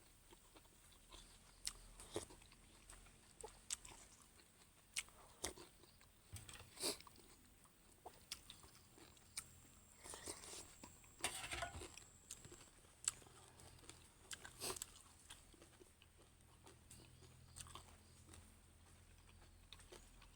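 Faint eating sounds from a person eating a bowl of pork noodle soup: chewing with scattered short clicks and a longer noisy stretch about halfway through.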